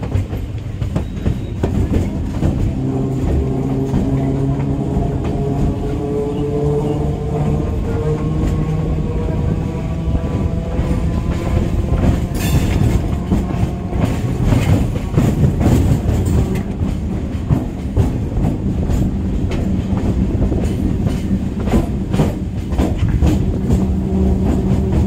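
Electric multiple-unit (EMU) local train running: a whine from its motors rises slowly in pitch through the first half as it gathers speed. Then the wheels clatter over rail joints and points, with a quick run of sharp clicks through the second half.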